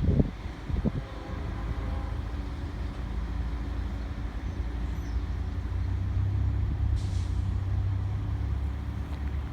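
Diesel freight locomotive rumbling low and steady, growing louder about six seconds in, with a few thumps at the start and a brief hiss of air about seven seconds in.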